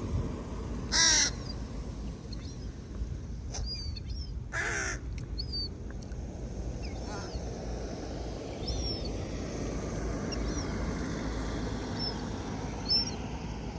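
A crow cawing twice, one short caw about a second in and another just before five seconds, over steady low background noise with faint high chirps scattered through.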